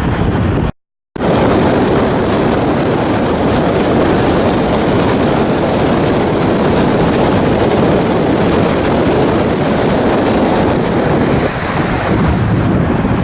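Wind buffeting the microphone over the steady rush of sea water around a cargo ship under way. The sound cuts out completely for a moment about a second in.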